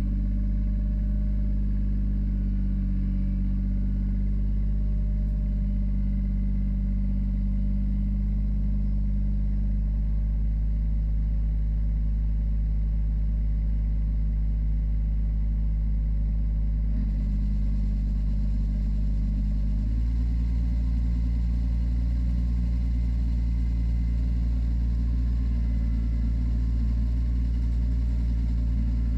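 Tractor engine running steadily at working speed while driving a PTO sickle bar mower. Its note shifts lower about twenty seconds in.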